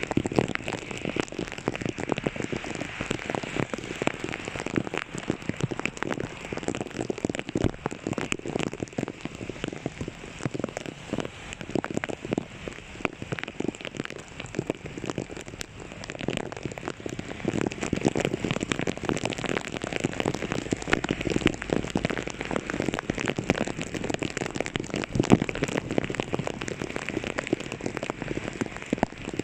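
Heavy rain pattering steadily: a dense hiss of countless small drop impacts.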